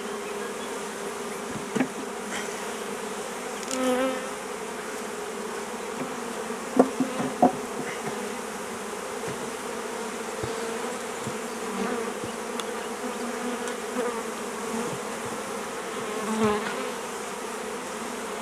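A swarm of honey bees buzzing around an open hive box: a steady hum that swells briefly twice with a wavering pitch. A few sharp knocks sound a third of the way in.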